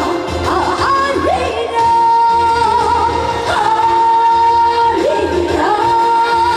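A woman singing a trot song live over instrumental accompaniment, holding long high notes with vibrato.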